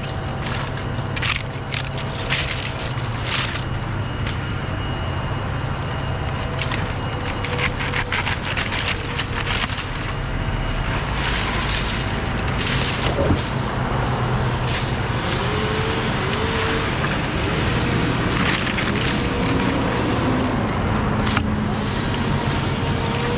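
An engine running steadily, with scattered sharp clicks and cracks over it and a few short rising tones in the second half.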